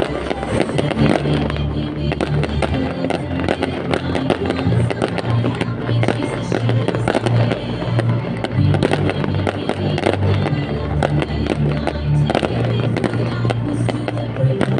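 Fireworks bursting in quick, irregular succession over loud music with held bass notes, as in a fireworks show set to music.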